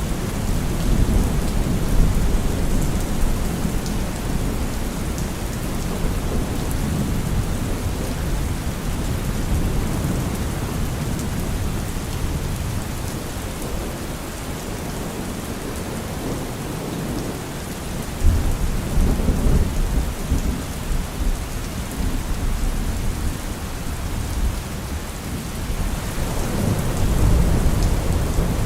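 Steady rain falling on trees and leaves, with thunder rumbling now and then: a low rumble breaks in suddenly about two-thirds of the way through and another swells near the end.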